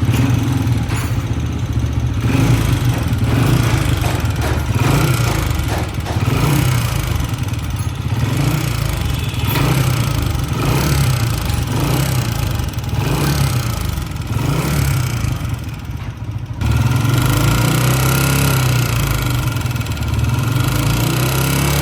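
Old-model Honda CG 125's single-cylinder four-stroke pushrod engine running with loud mechanical noise from the top end, revved up and down repeatedly, then running at a steady speed from about 16 seconds in. The mechanic traces the noise not to the cam gear, connecting rod, rocker pins, tappets or push rods but to the rocker plate.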